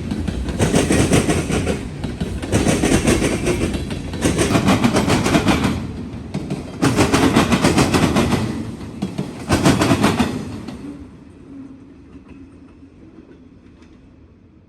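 Freight train cars rolling past, wheels clattering over the track in a repeating beat about every one and a half to two seconds. The clatter dies away about eleven seconds in as the end of the train goes by.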